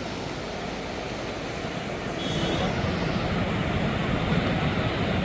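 Fast-flowing, rain-swollen river water rushing, with a deeper rumble that grows louder about two seconds in.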